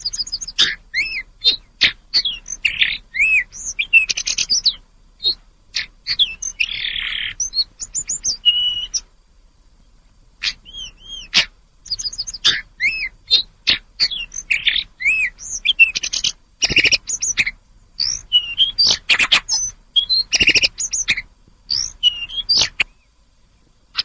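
Tledekan gunung songbird singing in rapid, varied phrases of high chirps and short curved whistles. The song breaks off for a moment near the middle, then resumes, and stops shortly before the end.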